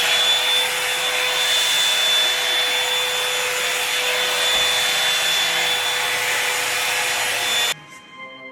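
Hair dryer running: a steady rush of air with a high motor whine, cutting off suddenly near the end.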